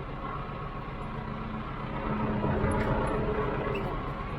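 Farm tractor engine running steadily, its note strengthening for a moment about halfway through.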